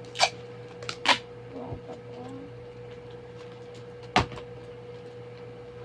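A few sharp clicks and taps from handling paper squishies and tape, three of them loud: about a quarter second in, about a second in, and about four seconds in. A steady low hum runs underneath.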